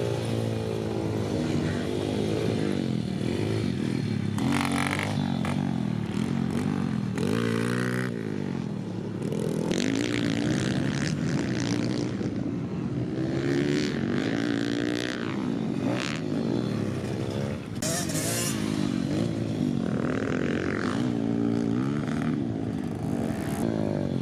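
Dirt bike engine riding a motocross track, its pitch climbing and dropping again and again as the rider opens and closes the throttle and shifts, with short stretches of rushing noise.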